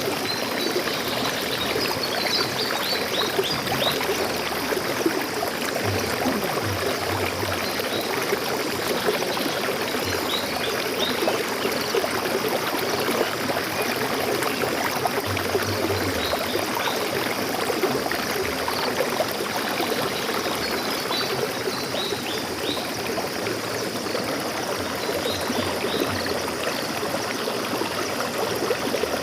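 A forest stream flowing steadily, its water trickling and gurgling. Short clusters of bird chirps come over it about two seconds in, around ten seconds in and again a little past twenty seconds.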